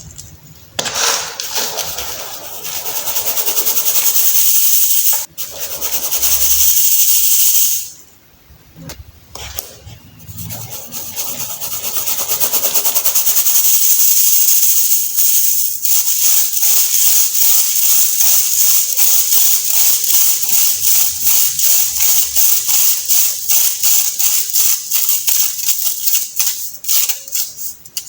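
Blocks of dried baking soda being crushed and crumbled by hand, with a crisp, crunchy, squeaky crumbling sound. It comes in long crumbling squeezes at first, then from about halfway as a rapid, even run of short crunches, about three a second.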